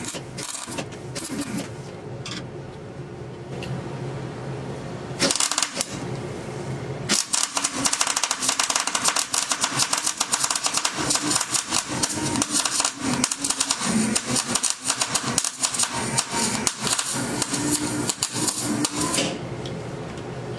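Rapid mechanical clattering, like a tool working hard: a short burst about five seconds in, then a longer run from about seven seconds that stops suddenly near the end, over a faint steady hum.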